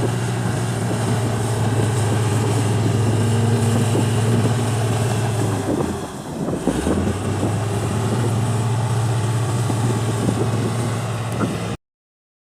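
Heavy diesel engine of construction machinery running steadily with a deep hum. It dips briefly about six seconds in, picks up again, and the sound cuts off abruptly near the end.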